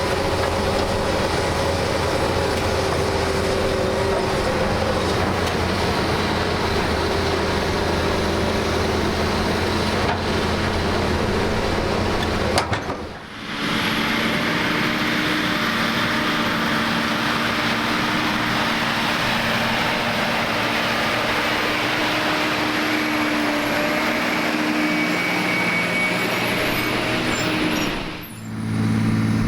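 Heavy construction machinery engines running steadily, in three stretches joined by abrupt cuts about 13 seconds in and just before the end.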